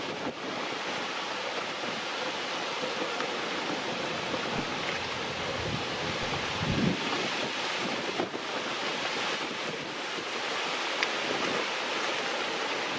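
Wind rushing over the microphone, with a heavier low buffet about halfway through.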